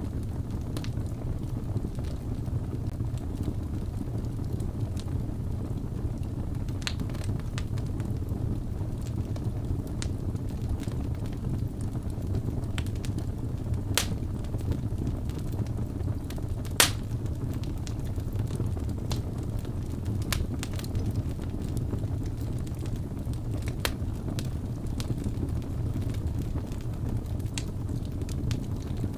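Wood fire burning, with a steady low rumble and scattered crackles and pops; one pop about 17 seconds in is the loudest.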